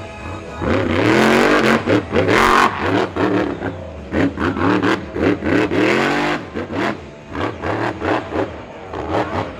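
Monster truck engine revving hard in surges, the pitch climbing and dropping with the throttle. It is loudest about a second in and surges again around four to six seconds in, with lighter blips of throttle after.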